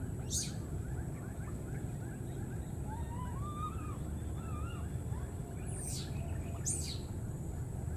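Birds calling over a steady background hiss: thin warbling calls through the middle, and three short, sharp high-pitched calls, one near the start and two close together near the end.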